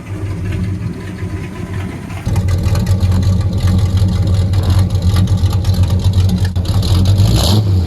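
1972 Ford F-250's engine running through its homemade budget "NASCAR"-style exhaust with a steady low note, stepping clearly louder about two seconds in.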